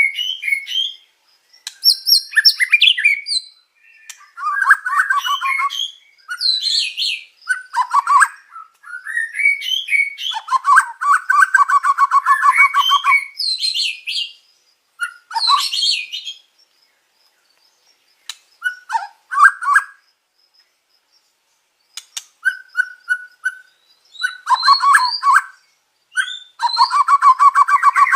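White-rumped shama (murai batu) singing a varied song in bursts of whistles, chirps and fast rattling trills, mixing in phrases imitating other birds such as canary. Short pauses break the song a little past halfway.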